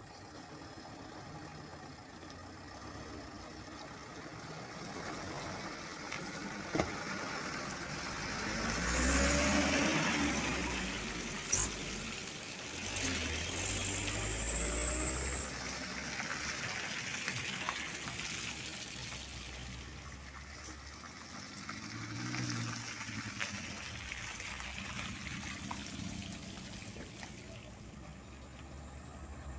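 Heavy trucks running on the road, their diesel engines and tyre noise swelling several times as vehicles pass, with a couple of sharp knocks along the way.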